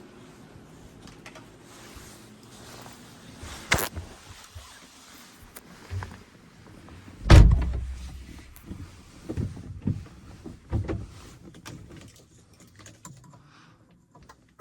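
Car door sounds: a click, then one heavy slam a little past the middle, followed by a few smaller clunks and knocks from inside the car. The engine is not yet running.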